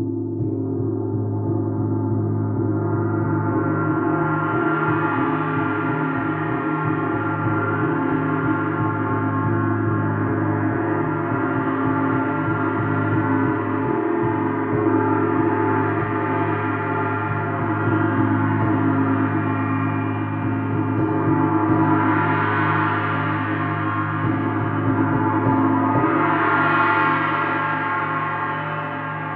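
Gong played continuously: a dense, sustained wash of many overlapping ringing tones, kept going after a strike and swelling brighter twice near the end.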